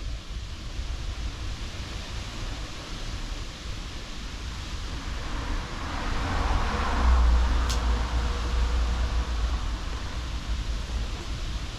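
Strong wind buffeting the microphone, a steady low rumble and hiss that swells into a louder gust about halfway through.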